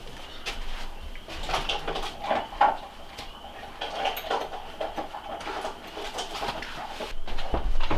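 Irregular light knocks and clatters of things being handled.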